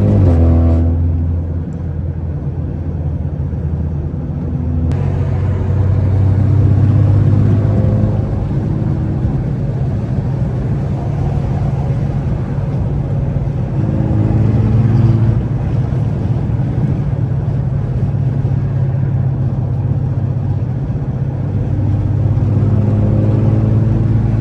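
Turbocharged BMW sedan engine pulling through the gears while driving. The engine note rises and falls about four times as it accelerates and shifts, over steady tyre noise on a wet road.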